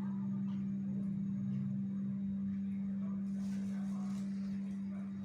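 A steady low-pitched hum at one constant pitch, with only faint background sound around it.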